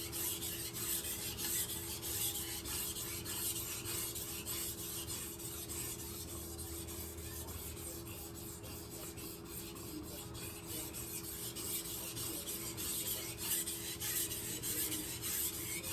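A kitchen knife blade stroked back and forth over a wet 1000-grit Gesshin whetstone with slurry on its face, making a steady scraping rasp of repeated strokes.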